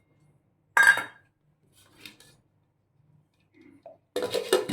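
Kitchen utensils clattering: a sharp clink about a second in, a faint one later, and a short run of clattering near the end, as things are handled before the biscuits are ground.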